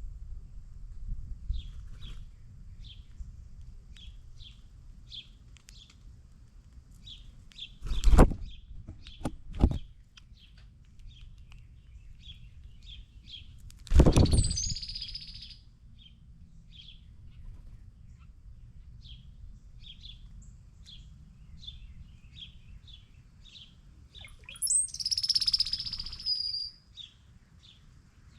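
A bird giving a steady series of short, sharp chip notes, one or two a second. A few loud knocks come about 8 and 9.5 seconds in, and louder calls that start high and fall come near 14 seconds and near the end.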